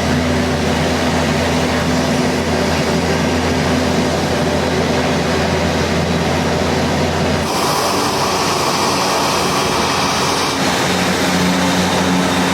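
Piaggio P-180 Avanti II's twin Pratt & Whitney PT6A-66 pusher turboprops running loud and steady, with a low drone and a few steady tones. About seven and a half seconds in the sound changes suddenly to a brighter hiss with a different set of tones.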